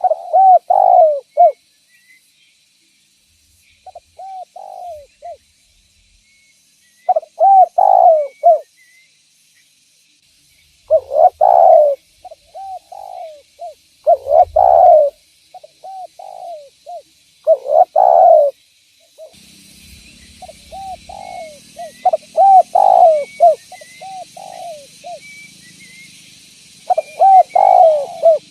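Spotted dove (derkuku) cooing: phrases of several rolling coos, one phrase every three to four seconds. About two-thirds of the way in, a steady hiss and a low hum join in the background.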